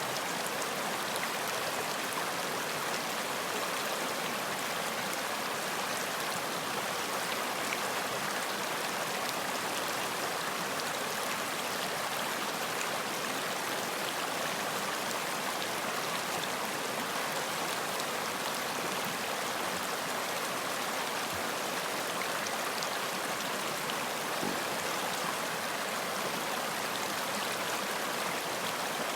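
Running water from a stream: a steady, even rush with fine splashing.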